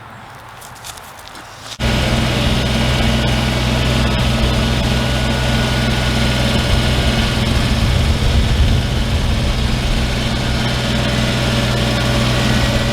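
An engine running steadily at a constant speed, cutting in abruptly about two seconds in.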